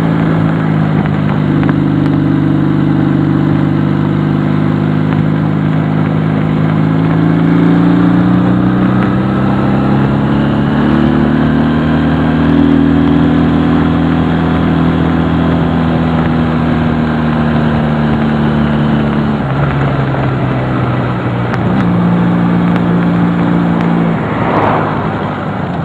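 Honda CD175's small parallel-twin four-stroke engine running while riding. Its pitch rises and falls several times with the throttle, dipping about three quarters of the way through before picking up again.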